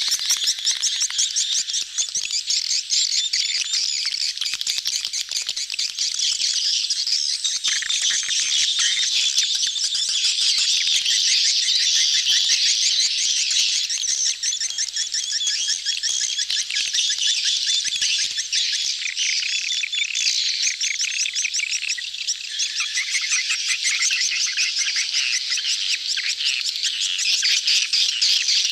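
A dense crowd of swiftlets chattering continuously, many rapid clicking trills overlapping: the mating chorus of a busy swiftlet colony, used as a lure call to draw swiftlets into a nesting house.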